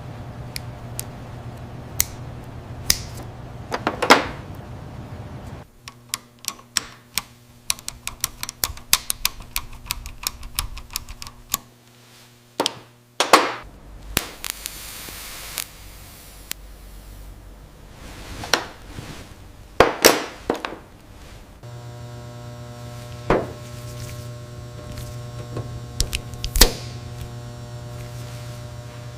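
Irregular clicks, taps and a few louder knocks of small parts being handled and fitted together by hand, over a steady low hum that changes abruptly several times.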